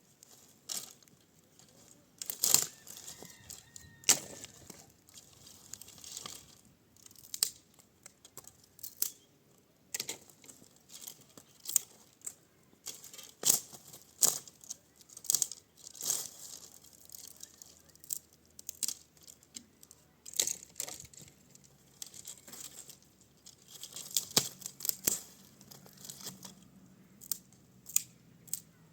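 Irregular sharp crackles and rustles of material being torn or crumpled by hand, in uneven clusters with short pauses between.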